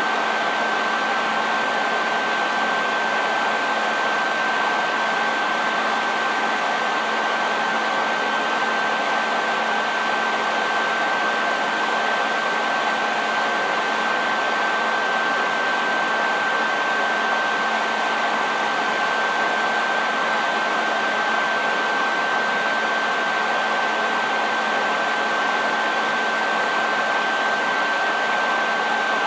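Hair dryer running steadily: a constant rush of blown air with a thin high whine from the motor and a faint low hum, unchanging throughout.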